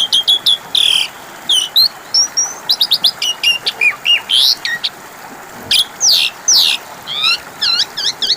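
Pied starling (jalak suren) singing a varied, rapid song of short whistles, slurred notes and chattering phrases, ending in a quick run of repeated notes. This is a lure song played to make a silent caged jalak suren start singing.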